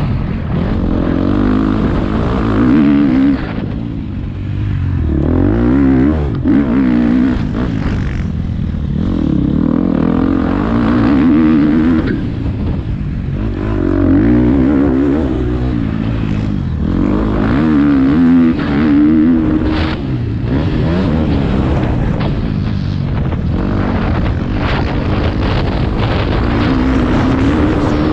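Motocross bike engine revving hard and backing off again and again, its pitch rising and falling every two to three seconds as the rider accelerates and shifts around the track.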